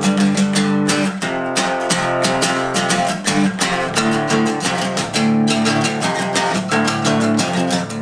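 Acoustic guitar strummed rhythmically in a country-style instrumental break between sung verses.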